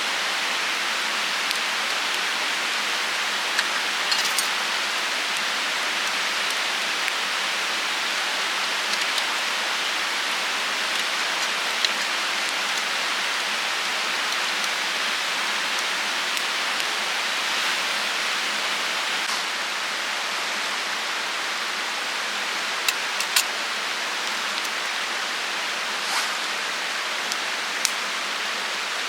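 A steady, even hiss with a few sharp clicks or crackles scattered through it; the strongest are a close pair about two-thirds of the way through.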